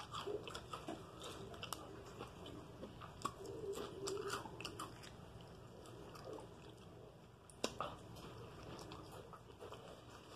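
Close-up mouth sounds of a person chewing a bite of Italian beef sandwich on French bread: faint wet smacks and small crunches. About three quarters of the way through there is one sharper click.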